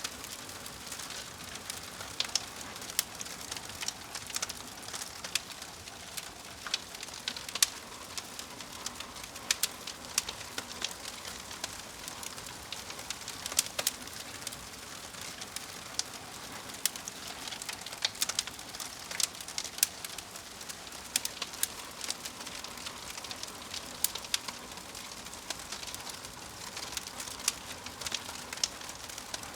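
Wood fire crackling: a steady soft hiss with frequent irregular sharp pops and snaps, a few of them louder.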